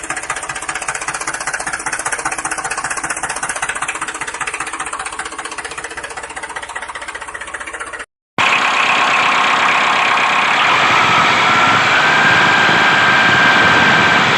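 A small motor or engine running steadily with a fast, even chugging beat. After a short break about eight seconds in, it picks up louder and more whining, with a tone that climbs slowly near the end.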